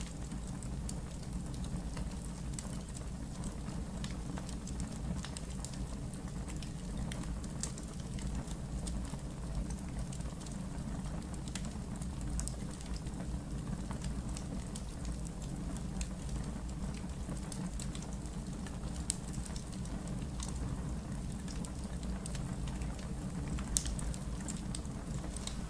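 Wood logs burning in a fireplace: a steady low rumble of flames with scattered small crackles throughout, and two sharper pops, one about three-quarters of the way in and another near the end.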